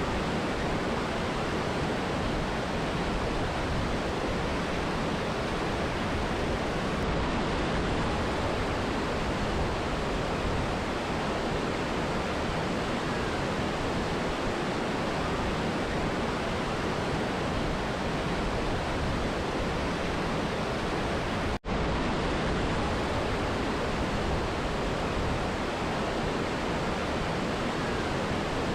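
Steady, even rushing of a mountain river and waterfall, a dense hiss spread across lows and highs. It is broken once by a split-second dropout about two-thirds of the way through.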